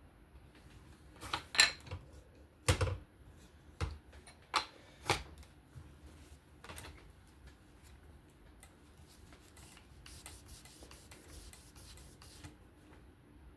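Sharp clicks and knocks from handling a Work Sharp Precision Adjust Pro fixed-angle knife sharpener and the clamped knife, one with a dull thud. Later comes a couple of seconds of soft scraping from the abrasive stone stroking along the blade bevel.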